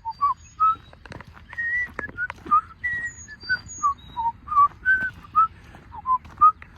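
A whistled tune of short, clear notes, about two a second, hopping up and down in pitch.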